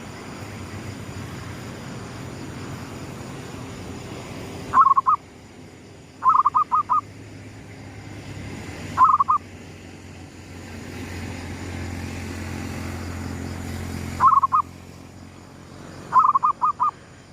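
Zebra dove (perkutut) cooing in five short bursts, each a quick run of two to five notes, over a steady low rumble.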